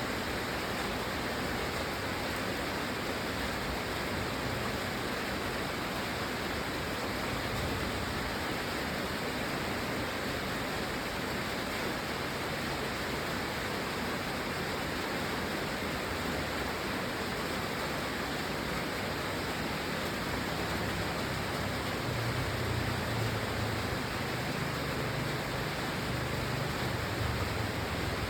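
Steady rain, an even hiss with no single drops standing out; a low rumble grows slightly louder in the last few seconds.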